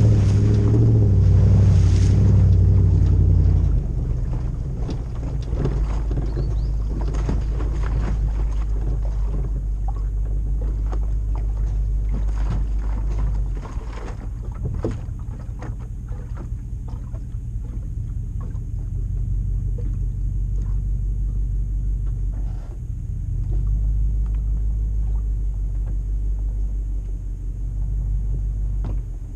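The 4.7-litre 2UZ-FE V8 of a Toyota LandCruiser 100 Series with a full exhaust, rumbling at low revs while driving: louder for the first few seconds, then steady, easing off twice. Scattered clicks and knocks run through it.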